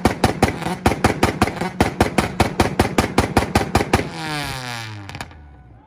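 Car engine held on a two-step launch limiter, with a fast, even string of loud exhaust pops and cracks at about eight a second over a steady engine note. About four seconds in the popping stops and the revs fall away, dying out a little after five seconds.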